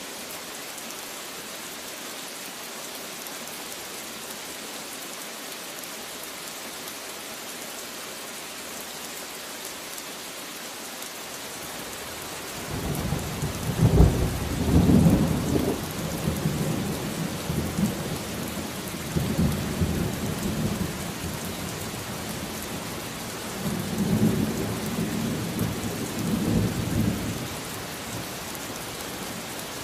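Steady rain hissing, then about twelve seconds in thunder breaks in with a sharp crack and rolls on in low rumbles that swell and fade several times, over the continuing rain.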